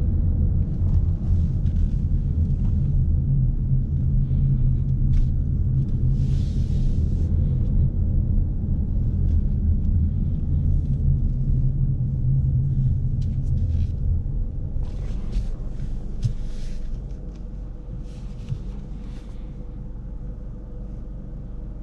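2017 Ford Mustang EcoBoost's turbocharged 2.3-litre four-cylinder engine running low and steady as the car drives, heard from inside the cabin. It goes quieter about seventeen seconds in.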